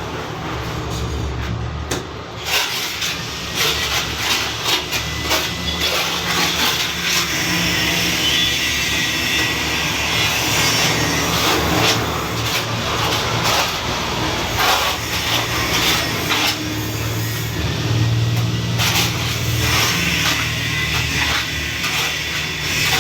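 Continuous rough scraping and rubbing of hand tools on mortar and tile during wall tiling. There are scattered knocks throughout, over a steady low hum.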